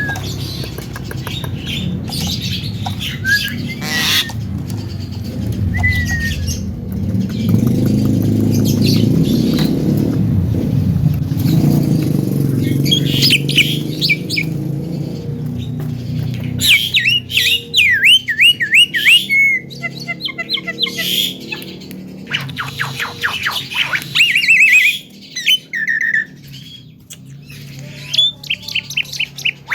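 Young Javan myna calling: scattered whistles at first over a low rumble, then from about the middle a busy run of rapid chirps, sweeping whistles and harsh squawks.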